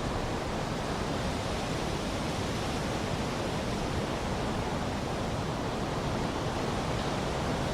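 Steady wind noise, an even rushing hiss that doesn't rise or fall, used as a meditation background layer.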